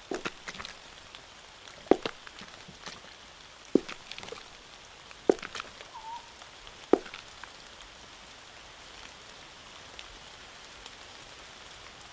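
Rain falling into a puddle: a steady light patter, with several larger drops plinking sharply into the water every second or two during the first seven seconds, then only the even patter.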